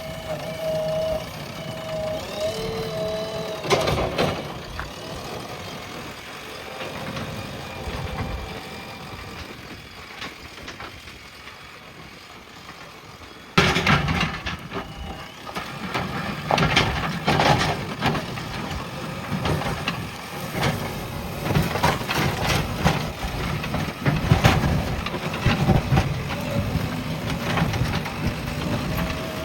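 JCB backhoe loader's diesel engine running as the machine works, with knocks and clanks. It is quieter for the first half, then abruptly louder about halfway, with frequent clatter.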